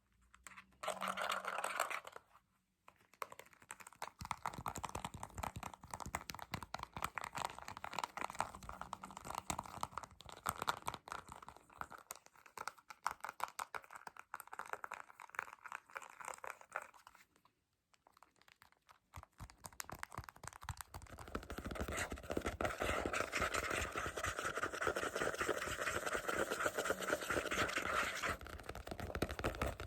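Close-up ASMR tapping and scratching: a dense, rapid run of clicks and scrapes. It pauses briefly about two and a half seconds in and again around eighteen seconds in, and grows louder and fuller from about twenty-one seconds on.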